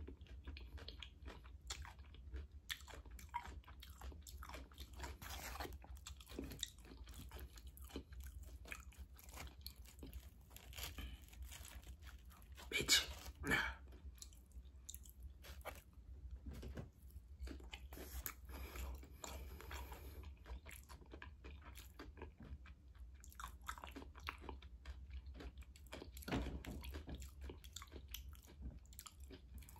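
Faint close-up chewing and crunching of a Flamin' Hot Cheetos–coated pickle, irregular crunches all through, with a couple of louder crunches about 13 seconds in.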